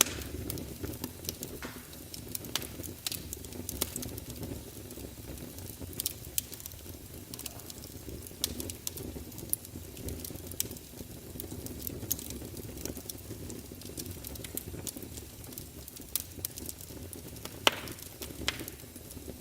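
Fire in a fireplace crackling: a steady low rumble of flames with frequent small sharp pops, and one louder pop near the end.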